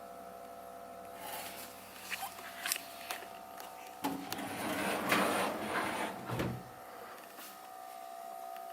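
Plastic panel and drawer of a fridge compartment being handled: scattered clicks and knocks, then a louder sliding rush about four to six seconds in, over a faint steady hum.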